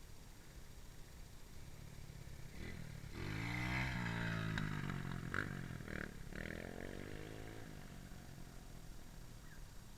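Small dirt bike engine running, its revs swinging down and back up over a few seconds, loudest about three to five seconds in and fading away near eight seconds, with a couple of sharp clicks.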